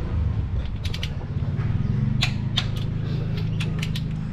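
Torque wrench clicking in scattered single and paired clicks as the Toyota 2E engine's cylinder head bolts are tightened, over a steady low hum.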